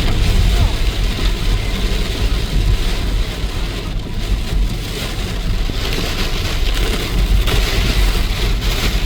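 A car driving in heavy rain: a steady low road rumble with the hiss of rain.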